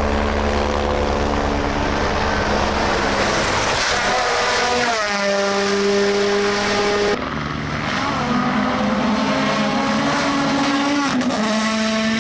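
Rally car engines running at high revs under full throttle; the engine note climbs about four seconds in, and the sound changes abruptly about seven seconds in as another car's engine takes over.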